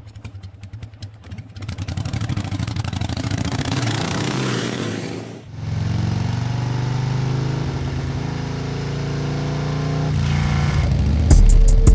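Motorcycle engine running and building up as it accelerates, with a brief dip about halfway through before it picks up again. Music with a heavy beat comes in near the end.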